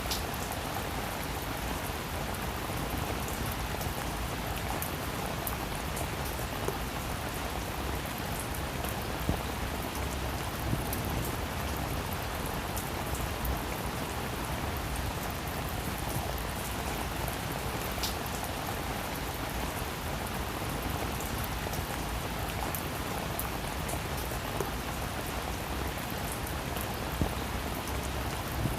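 Heavy rain falling steadily, an even hiss with scattered individual drops ticking sharply over it.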